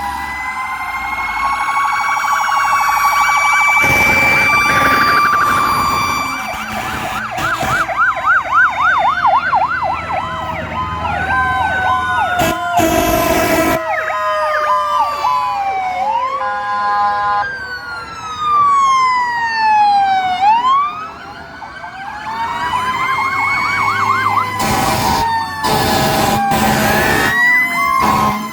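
Several fire-engine sirens sounding at once: wails rising and falling, fast yelps and stepped two-tone patterns overlapping, with one siren winding slowly down in pitch. Loud horn blasts cut in a few seconds in, near the middle and again near the end.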